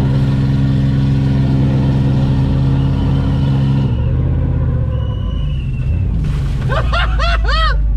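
Pickup truck engine held at steady high revs under load while pulling in a tug of war, then backing off about four seconds in. Near the end people whoop and shout.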